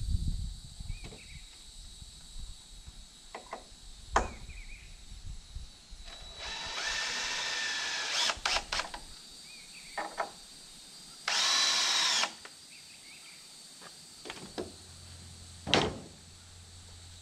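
Power drill driving screws into a wooden frame in two runs, a longer one about six seconds in and a shorter one around eleven seconds, with a few sharp knocks of wood being handled between them.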